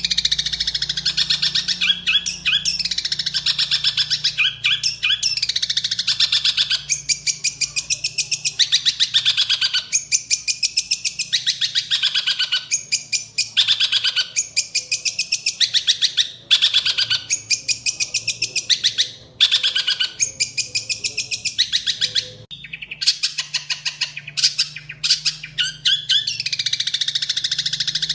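Long-tailed shrike (cendet) singing a fast, harsh chattering song of rapid repeated notes in runs of a few seconds with short breaks, full of mimicked calls such as tree sparrow chirps.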